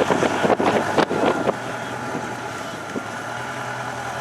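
Off-road rock crawler's engine running steadily, with a quick series of sharp knocks in the first second and a half.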